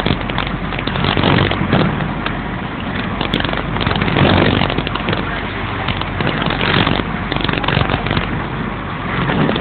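A ferry's engine droning steadily beneath loud, irregular crackling rumble that is typical of wind buffeting a phone's microphone on deck.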